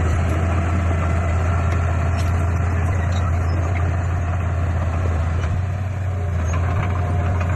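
The diesel engine of heavy earthmoving machinery running steadily, with a deep, even drone. Faint clicks and clanks sit over it.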